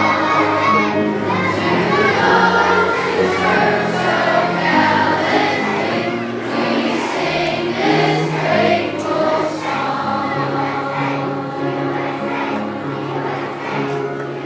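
A children's choir of elementary school students singing with instrumental accompaniment, held low notes under the voices.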